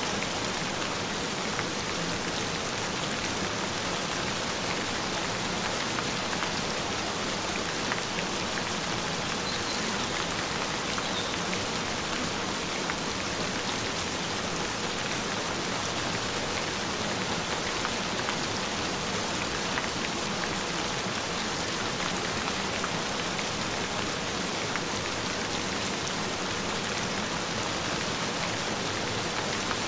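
Gentle rain falling steadily, with a faint steady tone underneath.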